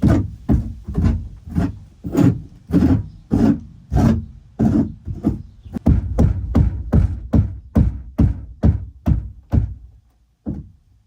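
Steady hammer blows, about two a second, pounding out the rotten wood core of a fiberglass boat deck. The blows stop shortly before the end.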